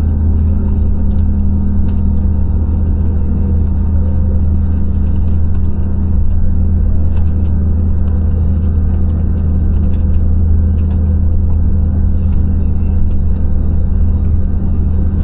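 Steady low rumble inside a jet airliner's cabin with the engines running, with a few faint rattling clicks.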